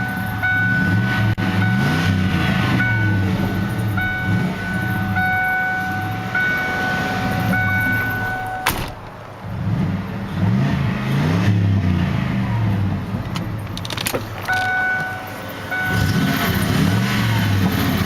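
1993 Lincoln Town Car's 4.6-litre V8 with dual exhaust, being revved up and down repeatedly in three spells with short pauses between. A steady high tone pulses on and off through the first half, stops with a click about nine seconds in, and returns briefly later.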